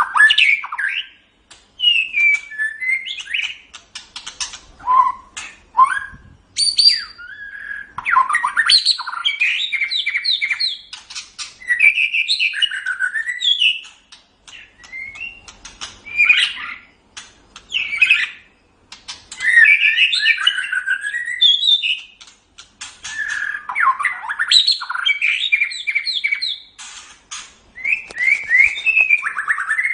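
White-rumped shama (murai batu) singing: varied, rich whistled phrases that glide up and down, mixed with rapid clicking chatter, in bursts of a few seconds with short pauses between them.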